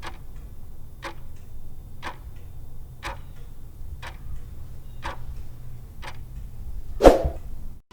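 A clock ticking, about one tick a second, with a louder tick about seven seconds in.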